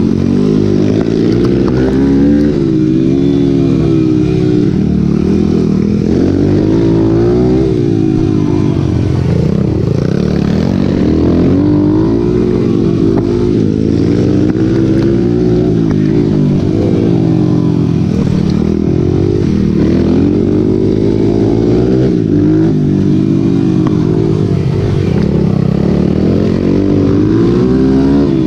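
Racing motorcycle engines running hard. Their pitch rises and falls over and over as the riders open and close the throttle, every couple of seconds.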